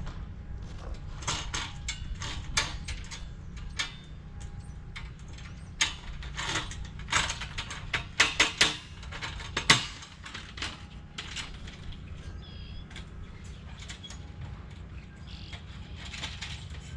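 Galvanized steel raised-bed panels and their hardware being handled and fastened together: a run of metal clicks, knocks and scrapes, busiest and loudest in the middle.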